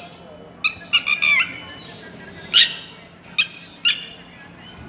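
A parent bird giving short, repeated distress calls, about six of them, with a quick cluster about a second in, calling for its missing chick.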